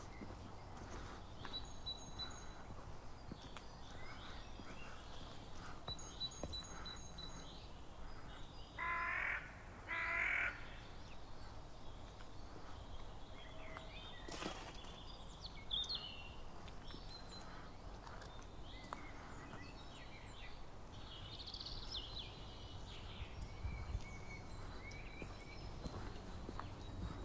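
Two loud bird calls near the middle, each about half a second long and about a second apart, like the caws of a crow. Faint, short, high chirps of small birds are scattered throughout, over a low steady background rumble.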